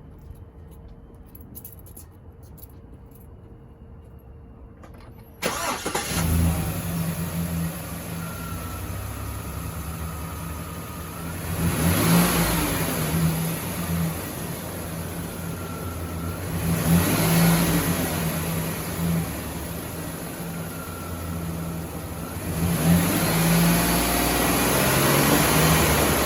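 2025 Chevrolet Express 2500 van's engine, first quiet with a few light clicks, then starting suddenly about five and a half seconds in and settling into a steady idle. It is revved three times, the last rev held higher near the end.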